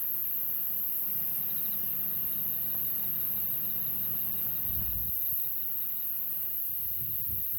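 Wood campfire burning under grilling pig's trotters, with soft, irregular low crackling, over a steady high-pitched insect trill.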